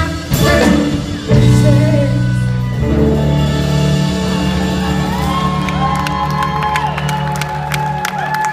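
Live band ending a song: a few final hits, then a long held closing chord, with the crowd whooping and cheering over it from about halfway through.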